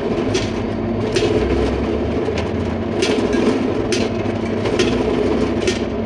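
Steady machine hum with sharp clicks or taps recurring roughly once a second.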